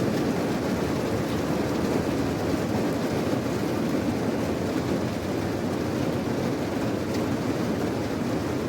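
Steady rain, a dense even wash of noise weighted toward a low rumble.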